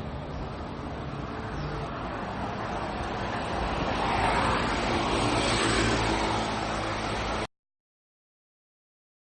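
Street traffic noise with a car passing, swelling to a peak about halfway through, then cutting off abruptly into dead silence for the last two seconds.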